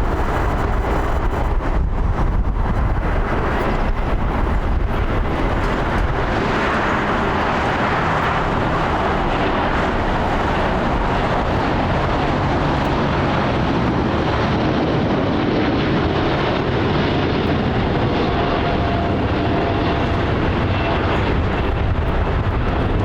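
Boeing 787 Dreamliner jet engines heard from the ground as the airliner moves on or over the runway: a loud, steady rush of engine noise. The deep rumble is heaviest in the first few seconds, and a faint steady whine comes in over the second half.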